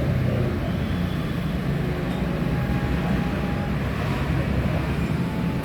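Steady low mechanical rumble in the background.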